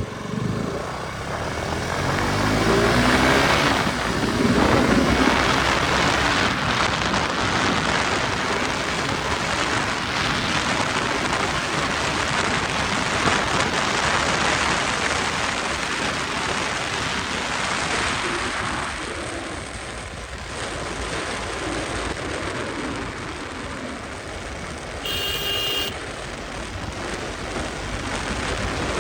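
Riding on a highway: wind rushing over the microphone and road noise, with the KTM RC 200's single-cylinder engine rising and falling in pitch in the first few seconds. A brief horn sounds about 25 seconds in.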